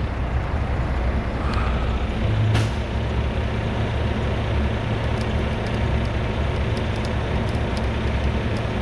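Heavy diesel truck engine running steadily while a loaded tri-axle dump truck is winched up out of a soft spot. One sharp click or knock about two and a half seconds in.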